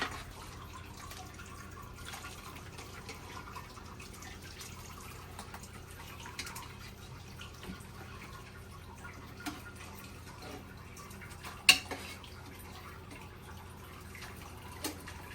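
Faint dripping liquid with scattered small ticks over a steady low hum, broken by a sharp click at the start and another about twelve seconds in.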